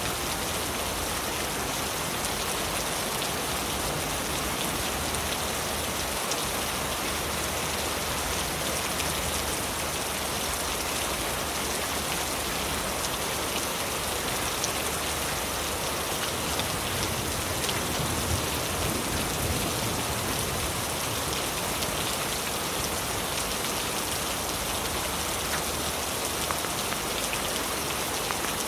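Heavy rain falling steadily on leaves, a dense even patter of drops with no break.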